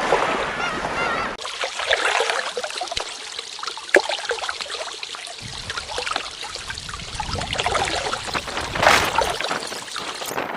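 Lake water lapping and splashing at the shore in a steady, uneven wash, with a few bird calls near the start.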